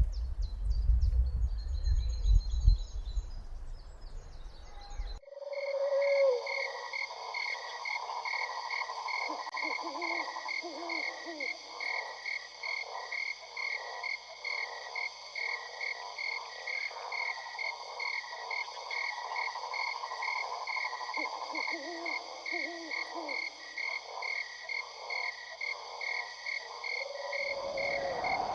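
A low rumble with a few high bird chirps cuts off abruptly about five seconds in. A dense chorus of frogs croaking replaces it, over steady high trilling and a rapidly pulsing call that continue to near the end.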